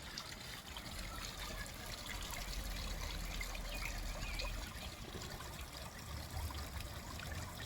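Water trickling steadily into a garden pond.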